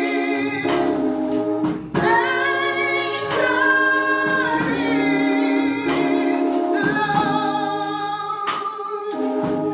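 Gospel singing: voices hold long notes with vibrato and slide between pitches over instrumental accompaniment.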